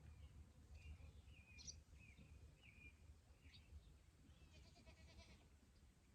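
Barn swallows twittering: a string of short, faint chirps, then a quick buzzy rattle about four and a half seconds in.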